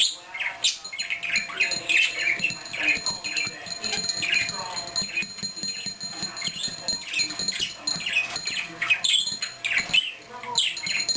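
Male parakeet warbling and chattering nonstop in a fast run of short chirps and squeaks, the excited song a cock bird gives while courting, here aimed at the bell in his cage.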